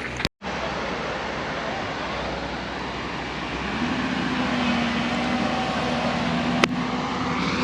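Steady rushing noise with the low, steady drone of a running engine, which comes in about four seconds in; one sharp click near the end.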